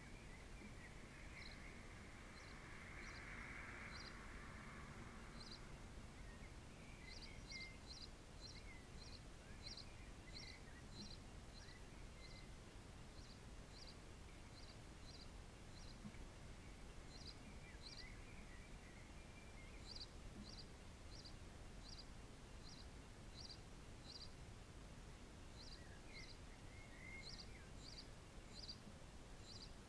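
Near silence: faint outdoor ambience with distant small birds, a run of short high chirps repeating irregularly and a little faint twittering now and then.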